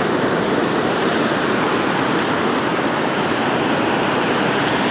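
Steady roar of water pouring through a dam spillway.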